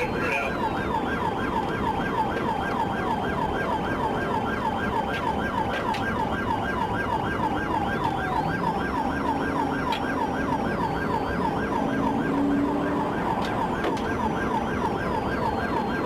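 Police car siren in a fast yelp, repeating about four sweeps a second, over steady engine and road noise during a pursuit.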